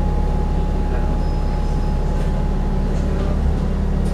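Dennis Trident 2 double-decker bus engine running steadily, heard on board, with a steady high-pitched whine over the low drone: the 'hoovering' sound.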